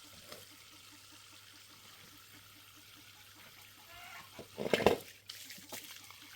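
Faint water trickling, with a brief loud burst of sound about five seconds in.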